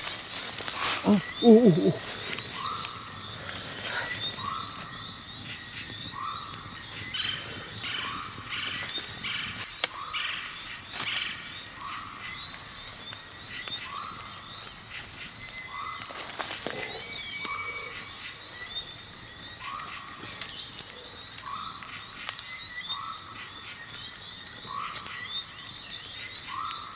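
An animal calling over and over outdoors, one short call about every second and a half, over a steady high insect-like tone. A louder, lower sound comes about a second and a half in.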